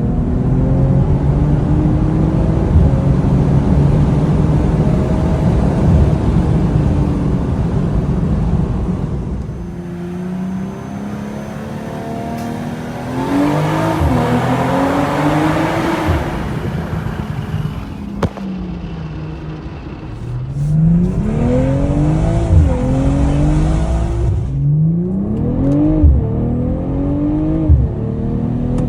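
BMW M440i's turbocharged B58 inline-six accelerating hard, the exhaust note rising through the revs and dropping at each upshift. The pulls come in quick succession in the second half, with a quieter, lighter stretch around the middle.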